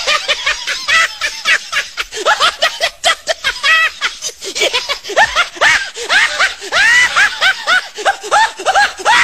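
Laughter sound effect: a fast run of high-pitched, squeaky snickering laughs, several a second, with a short break about three seconds in.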